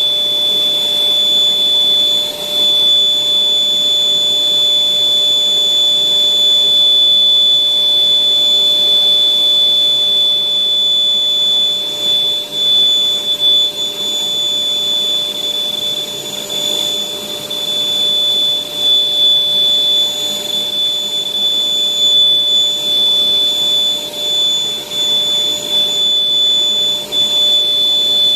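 Electric air blower running steadily with a high, constant whine, inflating a giant balloon.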